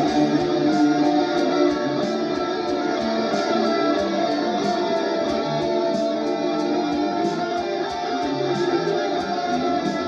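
Electric guitar played through a Valeton GP-200 multi-effects unit, improvising over a drum-machine beat, with a steady high tick about four times a second.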